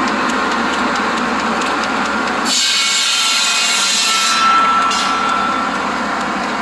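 A buzz saw driven by a Willys truck runs steadily, then bites through an old fence board for about two seconds with a loud hissing rip. After the cut the spinning blade gives a clear ringing whine for about a second before settling back to its steady run.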